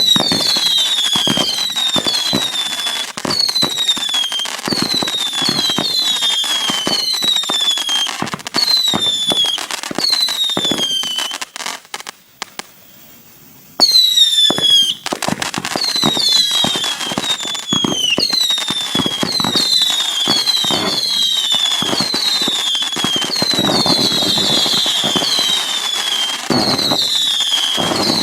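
A 500-shot consumer firework barrage cake firing in rapid succession. Each shot gives a short whistle falling in pitch, several a second and overlapping, among crackling pops. The barrage drops almost silent for a moment near the middle, then picks up again with a loud burst.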